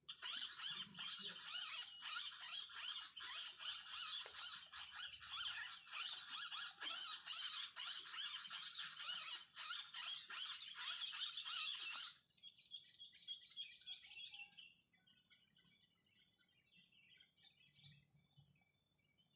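Dense, rapid, high-pitched bird chirping and squeaking that cuts off abruptly about twelve seconds in. A short steady high whistle follows, then a few faint chirps.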